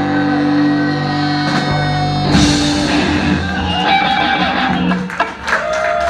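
Live rock band playing, with electric guitar and drum kit; sustained guitar notes ring, a loud hit comes about two and a half seconds in, and the sound turns choppier near the end.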